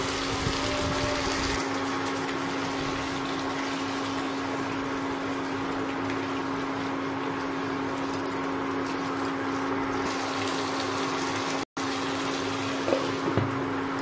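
Chicken pieces sizzling in hot oil in a pan, over a steady hum. There are two short knocks near the end.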